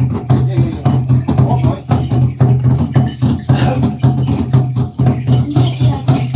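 A drum beaten in a fast, steady rhythm, about four to five strokes a second, over a steady low tone.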